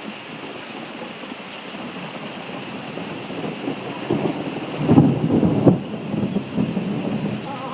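Steady rain falling, with a long roll of thunder that builds about three seconds in, hits its loudest clap near five seconds, and keeps rumbling.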